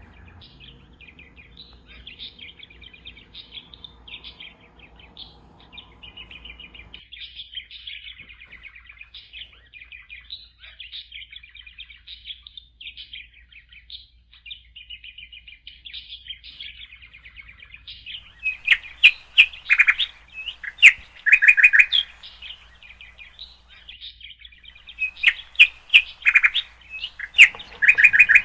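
Budgerigars chirping and chattering steadily, with two louder runs of sharp, rapid chirps about two-thirds of the way through and near the end.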